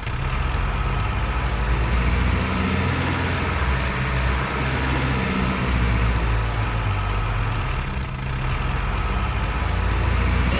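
A heavy truck's diesel engine sound idling, with a low steady rumble that wavers slightly in pitch.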